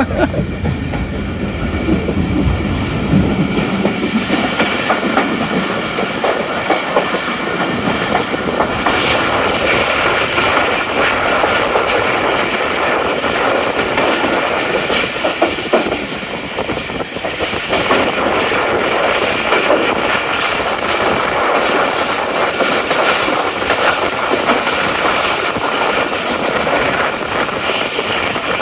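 Tezgam Express passenger train running along the track: a continuous rumble and roar of wheels on the rails, with a steady ringing hum above it.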